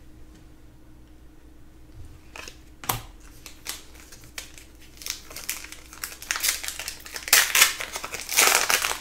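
Crinkling of foil trading-card pack wrappers as packs are opened and handled. Irregular crackling starts about two seconds in and is loudest near the end.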